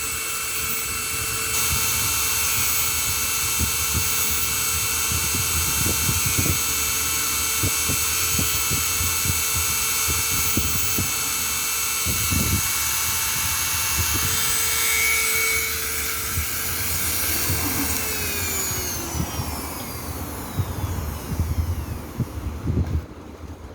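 Small high-speed electric motor running with a steady high whine, then switched off and spinning down, its pitch falling away, about three-quarters of the way through. Irregular low knocks and clatter of handling run underneath.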